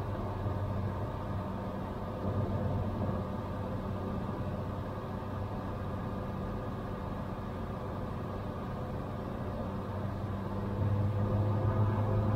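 Cessna 182 Skylane's six-cylinder piston engine and propeller droning steadily in flight, heard from inside the cockpit. The drone grows a little louder near the end.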